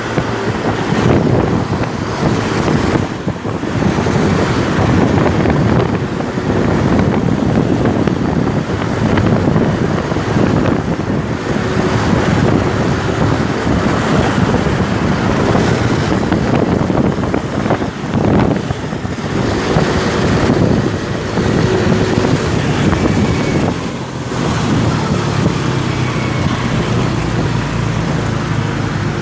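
Wind buffeting the microphone of a moving motorcycle, over the running engine and road noise. The engine note comes through more steadily near the end.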